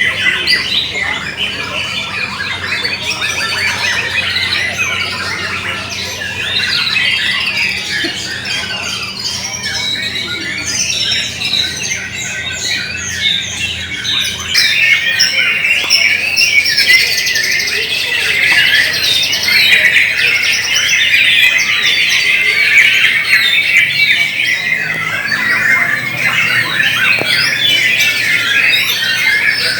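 Several white-rumped shamas (murai batu) singing at once: a dense, overlapping chorus of rapid whistles and chatter, louder from about halfway through.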